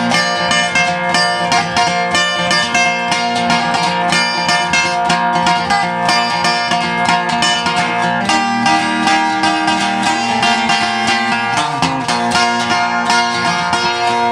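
Instrumental break of a folk song: acoustic plucked strings picked fast and steadily, with no singing.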